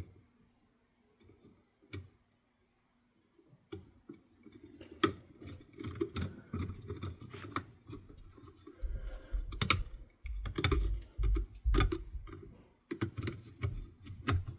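Irregular clicks, taps and handling noise of small screws and parts as the reverse switch is fitted into a ceiling fan's switch housing. Sparse at first, busier from about four seconds in, with a run of low thumps past the middle.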